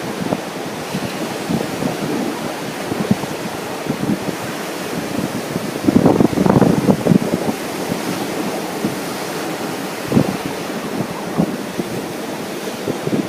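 Ocean surf washing steadily on a beach, with wind buffeting the microphone in gusts, the strongest about six seconds in.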